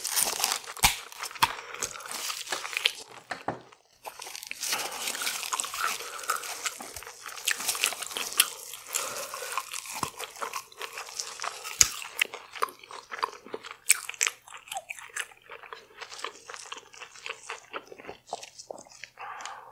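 Close-miked eating: crunchy bites and chewing of fried, Doritos-crusted seafood, with wet, crackling mouth sounds. The chewing goes on steadily, with a brief pause about four seconds in.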